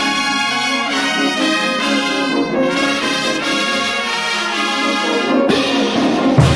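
Bolivian brass band of trumpets and trombones playing ch'uta dance music in full, sustained chords. About five and a half seconds in the held horn notes break off into a noisier stretch.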